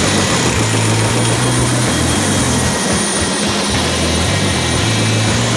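Steady, loud helicopter rotor and engine noise with a low hum underneath.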